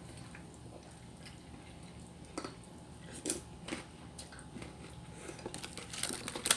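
A person chewing and eating, with scattered soft mouth smacks and clicks that come closer together near the end.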